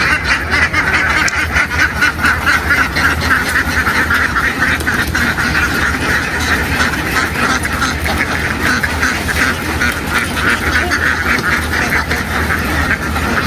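A large flock of domestic ducks quacking nonstop, many calls overlapping into a dense, steady din.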